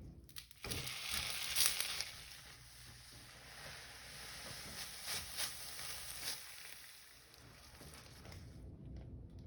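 Food sizzling in a hot pan: a steady hiss with a few sharp crackling pops. It starts suddenly about half a second in and cuts off near the end.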